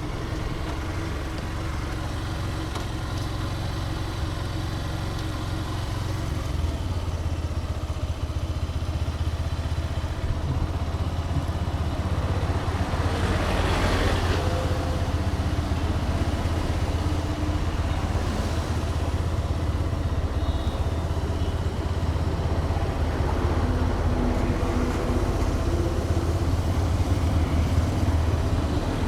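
Hero Xtreme 160R's single-cylinder engine running steadily on the move, a low hum under wind and road noise. A broad swell of louder noise rises and fades about halfway through.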